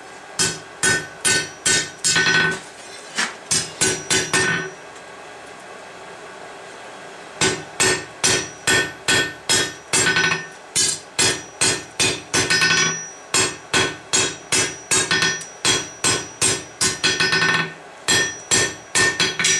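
Hand hammer striking hot steel on an anvil, the anvil ringing with each blow: a short run of blows, a pause of about three seconds, then steady hammering at about two blows a second.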